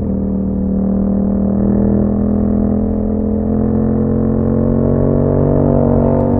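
Yamaha MT-07 parallel-twin engine running through an Akrapovič exhaust at a steady cruise, its note rising slowly toward the end as the bike gathers speed.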